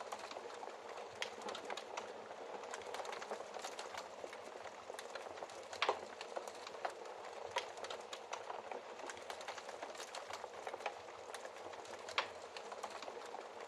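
Wood fire crackling steadily in a fireplace, with frequent small snaps and a few louder pops, the loudest about six seconds in and again near the end.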